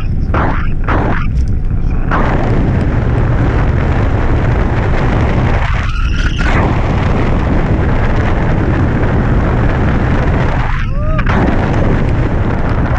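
Loud, steady rush of wind buffeting the microphone on a hang glider in flight, easing briefly a couple of times.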